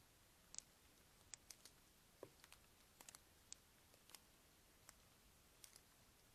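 Faint, sharp ticks at an irregular pace, about two a second, over near silence.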